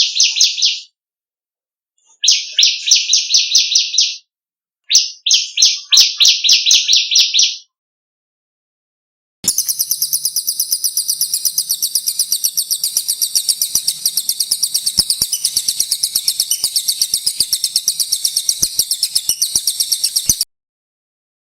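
Small songbirds singing: three short, fast, chattering trills with brief pauses between them, then after a gap one long, very high, rapid rolling trill lasting about eleven seconds that cuts off suddenly.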